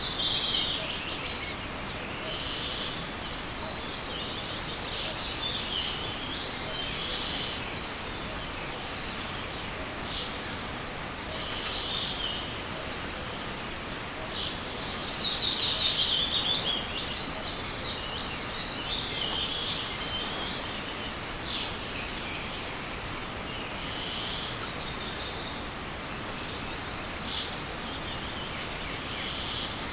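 Songbirds singing short repeated phrases over a steady rushing of a small forest stream, with one louder song about halfway through.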